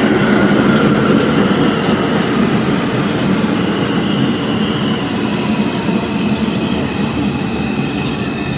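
R142 subway train running into the station, its wheels rumbling steadily on the rails with a thin, faint squeal. A whine falls in pitch over the first couple of seconds as the train slows.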